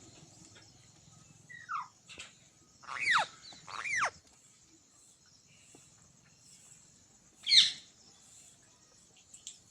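Green parrot calling: a short falling whistle, then two arched whistles about a second apart that rise and fall in pitch. A few seconds later comes one loud, harsh screech, the loudest call.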